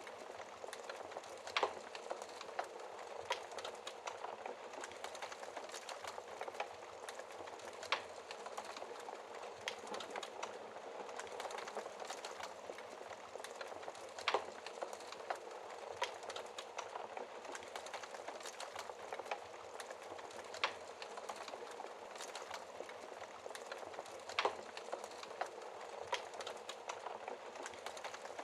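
Wood fire burning in a fireplace behind a glass shield: a steady hiss and fine crackle with scattered sharp pops, about five of them standing out loudly.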